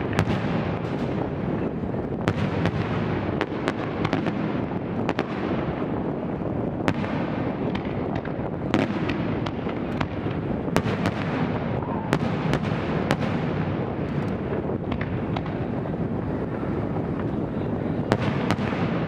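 Aerial fireworks shells bursting in quick, irregular succession: sharp bangs one after another over a continuous rumble of echoing booms.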